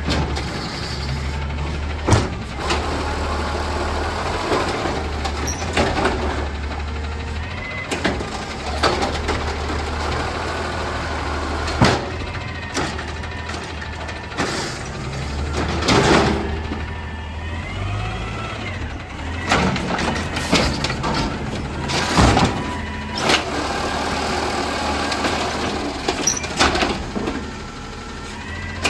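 Amrep garbage truck collecting, its diesel engine running steadily under repeated sharp knocks and bangs of bins and body parts, with rising and falling whines in the middle.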